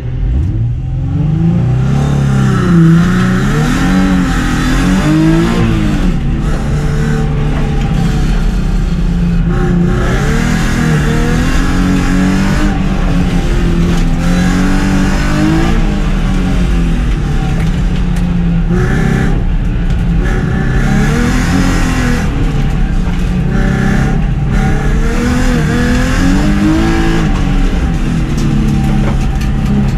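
A car engine under hard driving on an autocross course, revving up and falling back again and again as the driver accelerates, lifts and shifts through the course.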